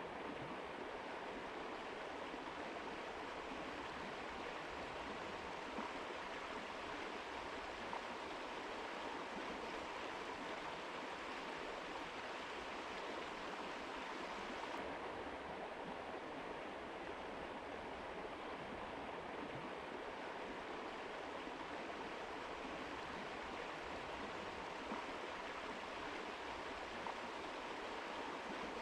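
Mountain river flowing: a steady, even rush of water, its highest hiss growing slightly duller about halfway through.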